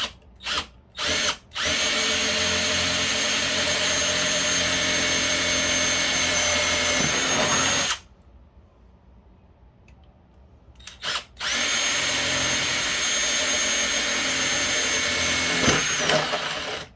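Electric drill with a 1/4-inch bit boring holes in the PS3's plastic casing. A few short trigger blips come first, then two long runs of about six and five seconds with a steady motor whine, separated by a pause of a few seconds.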